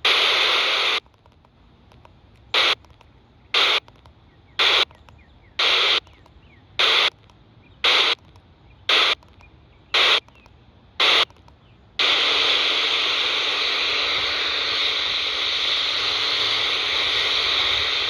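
Radio receiver tuned to the 27 MHz UK FM CB band, putting out FM static in short bursts about once a second as its squelch opens and shuts. About two-thirds of the way in, the squelch stays open and the static becomes a steady hiss with no voice on it.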